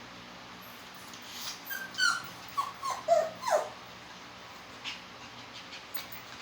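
Poodle whining: a quick run of about half a dozen short whimpers, each falling in pitch, bunched together between about one and four seconds in, then a few faint clicks.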